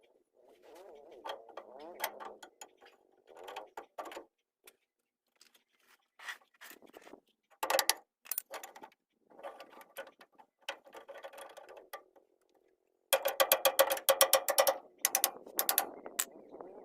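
Hand ratchet wrench clicking in short runs, with scattered metal knocks. The loudest, fastest run of clicks comes about 13 seconds in.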